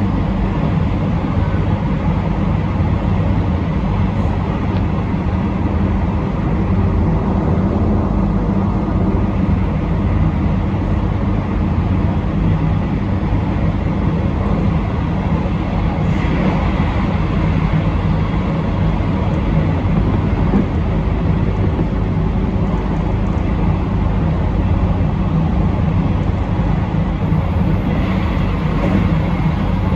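Train running steadily along the line, heard from inside the train: a continuous low rumble of wheels on rail and running gear, with no change in speed.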